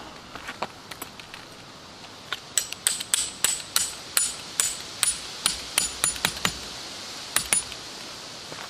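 A hammer striking a metal tent stake in a quick series of ringing metallic blows, about three a second, pausing briefly and then two more blows near the end.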